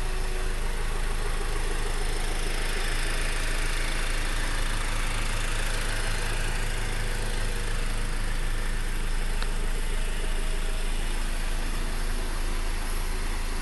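Honda Accord four-cylinder engine idling steadily, heard from outside the car with the hood closed.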